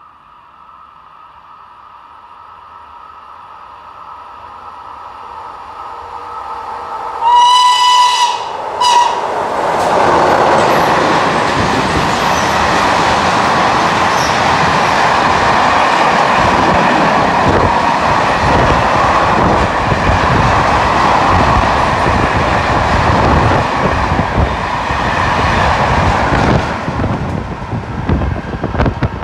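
Italian train approaching, growing steadily louder, then sounding one long horn blast and a short second toot. It passes close by with loud rail and wheel noise for about sixteen seconds before the sound drops off near the end.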